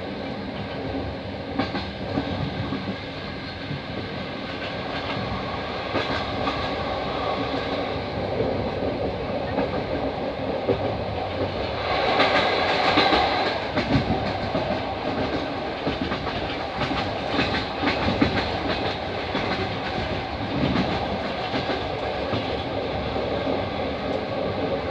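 A passenger train running on the rails, heard from inside a carriage: a steady rumble with the wheels clicking over the rail joints. It grows louder and brighter for a couple of seconds about halfway through.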